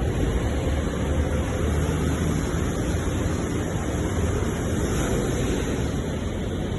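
Ocean surf washing steadily on the shore, a continuous roar of breaking water with a deep low rumble underneath.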